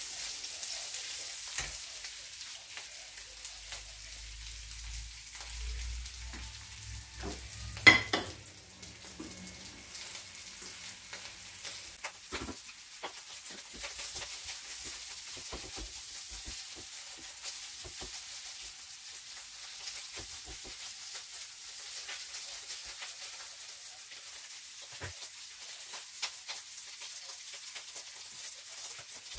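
Rice with diced potatoes and carrots frying in butter and oil in a non-stick frying pan, a steady sizzle with the scrape of a silicone spatula stirring, as the rice is toasted in the fat before the water goes in. A single sharp knock about eight seconds in.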